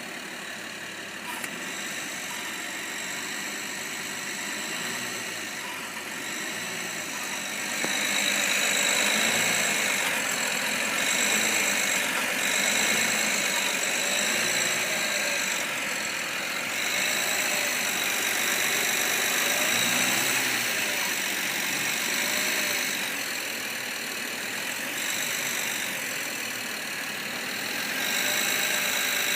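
BMW 325i E90's N53 3.0-litre straight-six engine running with a high-pitched squeak, louder from about eight seconds in. The dealer calls the squeak "Stand der Technik", i.e. normal for this engine.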